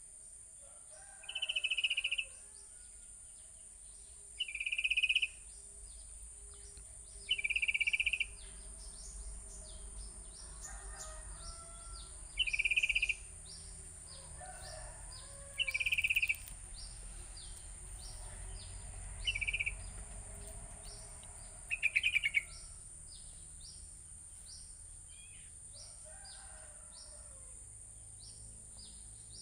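Sooty-headed bulbul (kutilang) calling: a short call repeated seven times about every three seconds, stopping a little after two-thirds of the way through. A steady high insect drone runs behind it.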